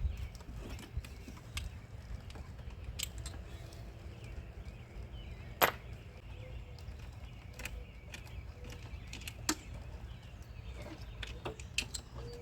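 Scattered metallic clicks and clinks of hand tools and parts being handled in a truck's engine bay, with one sharper click about halfway through, over a steady low rumble.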